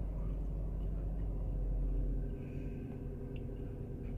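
BMW E60 535i's twin-turbo straight-six engine idling, heard from inside the cabin. The car is throwing ABS, DSC and transmission warnings, which the owner blames on a failing alternator.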